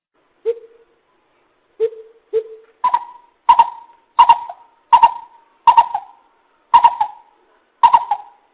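Greater coucal giving its deep hooting call: three low hoots, then a run of seven louder, higher-pitched hoots at a little under one a second.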